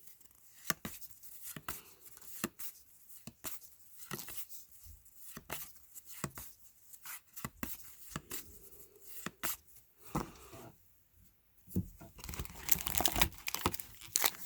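Trading cards being flipped through one at a time, a short snap or slide about once a second. Near the end, a wax or foil card pack wrapper is torn and crinkled open.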